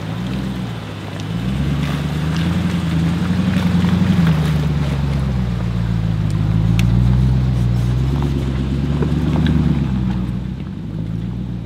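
Jeep engine pulling up a rough mountain trail, its pitch rising and falling several times as the throttle is worked, with scattered sharp clicks over it.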